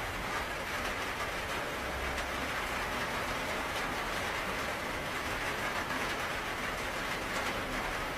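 Steady rainfall, an even hiss with faint scattered drop ticks and a low rumble underneath.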